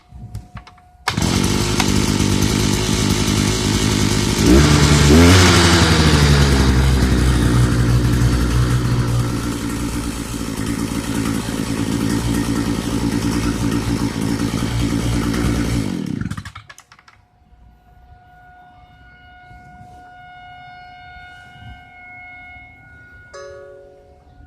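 Thunderbay Y43 power auger's two-stroke engine firing up and running, revved briefly with a little throttle about four seconds in. It keeps running steadily, then cuts out about sixteen seconds in.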